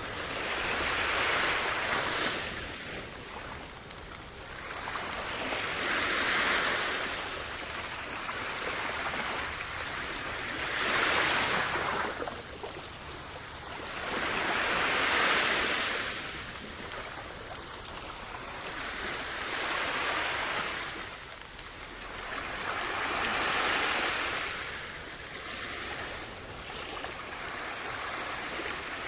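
Sea waves breaking and washing up a shore, six swells of surf each rising and falling away, roughly every four to five seconds.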